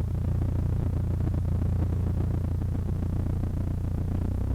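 Cessna 152's four-cylinder Lycoming O-235 engine and propeller running steadily, a low, even drone heard from inside the cockpit.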